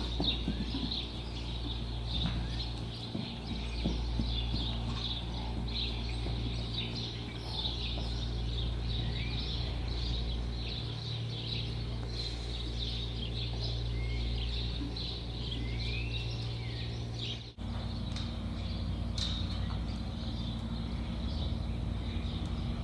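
Small birds chirping and twittering continuously, with a few short rising whistled calls, over a steady low hum. The sound cuts out for an instant a little past the middle.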